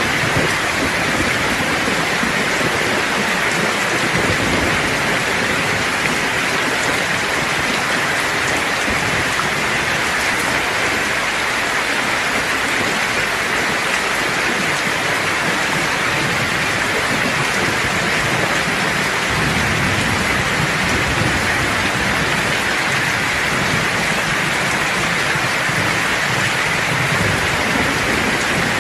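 Steady rain falling, an even hiss of many drops, with low thunder rumbling underneath and swelling now and then.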